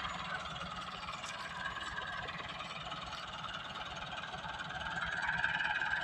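Tractor engine running steadily, rising a little near the end.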